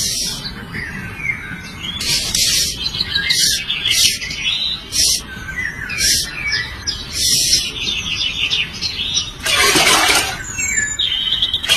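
Birds chirping and calling, with repeated short hissing bursts between the calls and a longer, louder burst of noise near the end.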